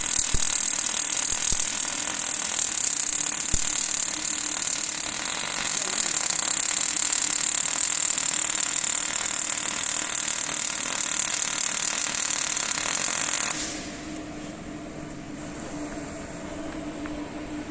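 Welding arc crackling steadily with a dense hiss, then cutting off abruptly about three-quarters of the way through, leaving a quieter low hum.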